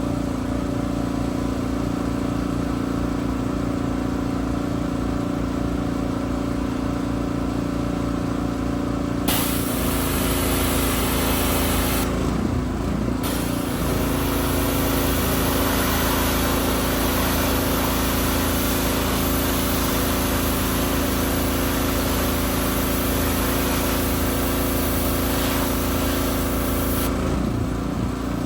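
Gas pressure washer engine running steadily. About nine seconds in, the trigger is opened and a high-pressure water spray hisses over the engine; it stops for about a second, then sprays again until near the end.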